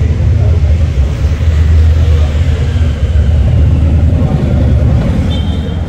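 2006 Harley-Davidson Dyna Super Glide's V-twin engine running steadily while riding, heard from a bike-mounted camera mixed with wind noise.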